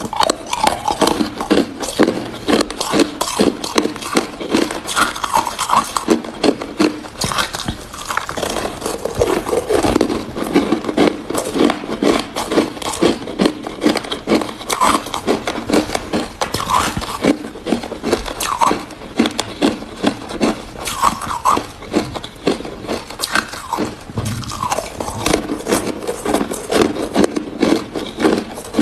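Hard ice being bitten and chewed close to the microphone: a continuous run of loud, rapid crunches and crackles.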